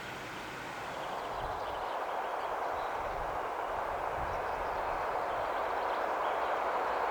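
Train approaching along the track, a steady rushing noise that grows gradually louder, with faint bird chirps above it.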